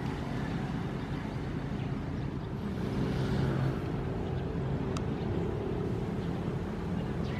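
Ocean waves washing in a steady low rush, one wave swelling louder about three seconds in.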